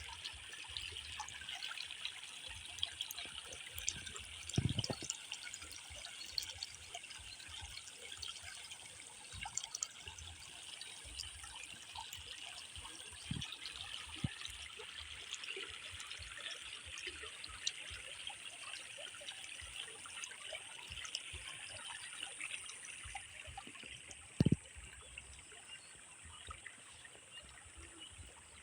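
Water trickling and dribbling steadily, with two brief dull thumps, about five and twenty-four seconds in.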